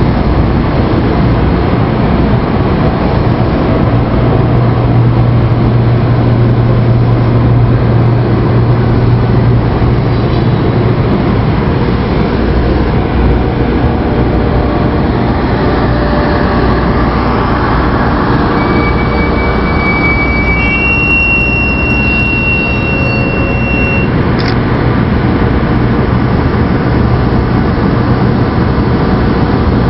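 300 series Shinkansen trainset moving slowly over a road level crossing: a steady rumble with a low hum. About two-thirds through, two short high steady tones sound one after the other.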